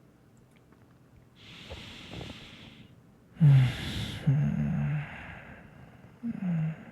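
A man breathing close to the microphone: one soft breath, then a loud breathy sigh with a falling voice, a low hum after it, and a short falling hum near the end.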